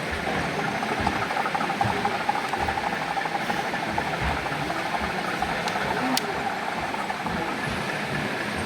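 Background hubbub of a busy exhibition hall with a model train running on a layout: a faint steady whine through roughly the first half and a single sharp click about six seconds in.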